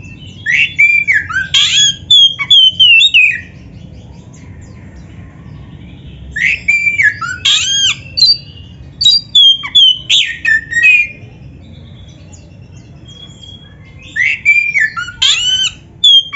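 Oriental magpie-robin (kacer) singing loud, varied whistled phrases full of rising and falling slurs. The song comes in three bursts, each a few seconds long, separated by short pauses.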